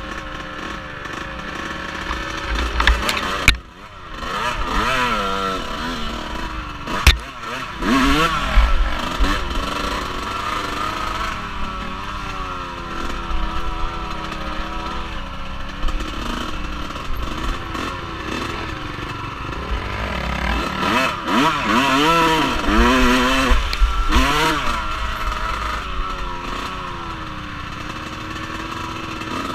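Off-road vehicle engine running and revving up and down repeatedly, picked up by an onboard action camera with wind rumble, and a couple of sharp knocks about three and seven seconds in.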